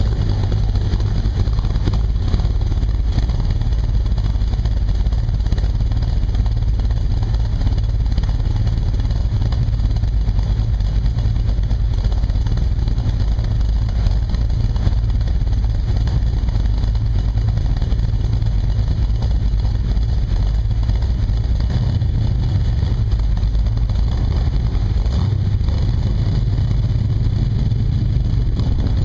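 A 1972 De Tomaso Pantera's Ford V8 idling steadily through its quad-tip exhaust: a low, even rumble with no revving.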